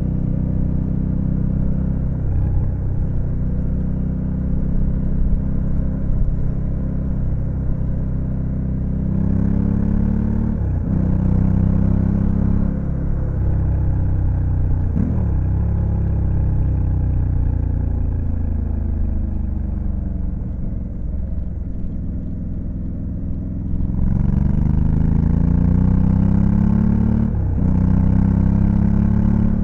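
Honda Africa Twin CRF1100L's 1084 cc parallel-twin engine pulling under acceleration, its pitch rising and then dropping sharply at each of several gear changes, with easier cruising in between.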